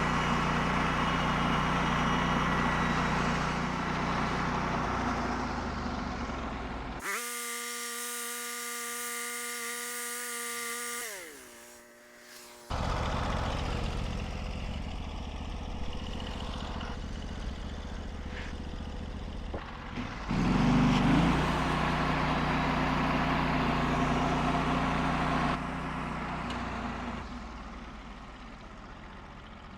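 Portable band sawmill's gasoline engine running steadily while milling pine boards. For several seconds in the middle a high whine with many overtones takes over and then falls in pitch, and the engine sounds louder again about twenty seconds in before easing off near the end.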